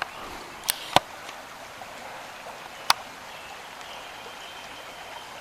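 Creek water running with a steady rush, broken by three sharp clicks: two about a second in and one near three seconds.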